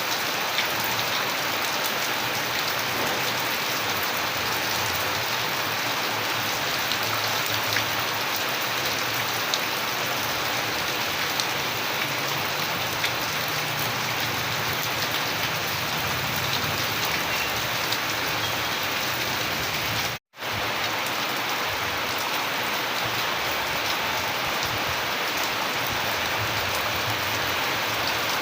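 Steady rain falling, an even hiss dense with fine raindrop ticks. Near two-thirds of the way through, the sound cuts out completely for a fraction of a second and then resumes.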